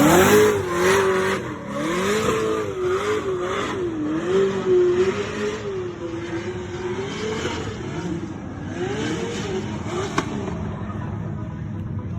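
Car engine revving, its pitch rising and falling repeatedly over loud road noise, then cutting off abruptly.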